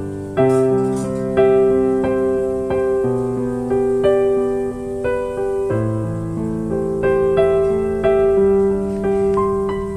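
Slow, gentle solo piano music, with a new note or chord about once a second, each ringing on and fading.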